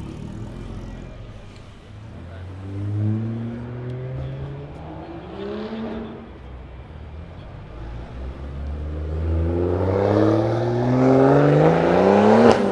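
Cars accelerating away, their engines revving up and rising in pitch several times. The loudest is a long climb near the end that finishes with a sharp crack.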